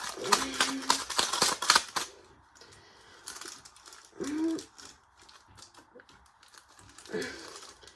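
Rapid clattering and clicking of hard objects rattling inside a toy washing machine, thickest in the first two seconds and then thinning to scattered clicks, with a short hum near the start and a brief rising whine about four seconds in.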